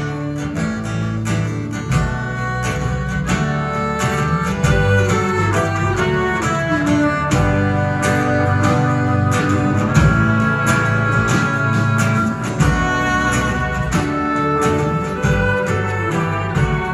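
Live band playing an instrumental passage between sung lines: strummed acoustic guitar with bowed strings such as violin.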